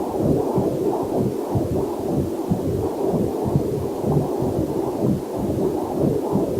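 Heartbeat picked up by a fetal Doppler monitor: a steady run of regular, whooshing pulses, with a faint waterfall hiss mixed in underneath.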